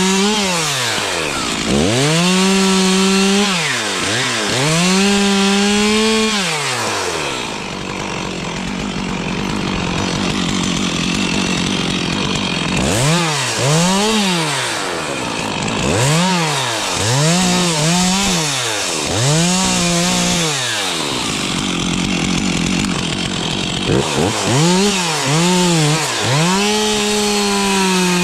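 Stihl two-stroke chainsaw revved in repeated short throttle bursts, its pitch climbing and falling each time, and settling to idle twice for several seconds.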